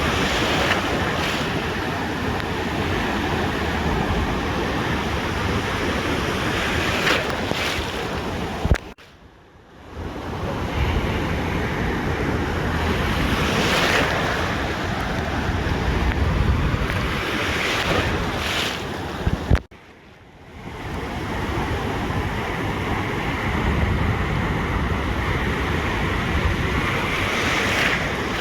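Ocean surf breaking and washing up a beach, swelling again and again, with wind buffeting the microphone. The sound drops out abruptly twice, about a third and two-thirds of the way through, then fades back in.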